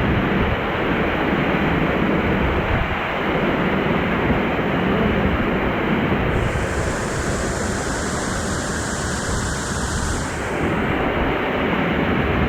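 Waterfall and fast forest stream rushing over rocks, a loud, steady wash of falling water. A brighter hiss joins it for about four seconds past the middle.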